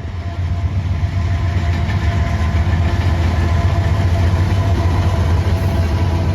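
Diesel freight locomotive running under power as a train passes close by: a loud, steady low engine hum with a few steady tones above it, having grown louder just before.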